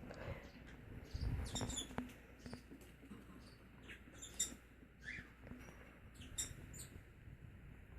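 Small pet parakeets giving faint, short high chirps and squeaks, a few at a time, with small clicks and light rustling in between.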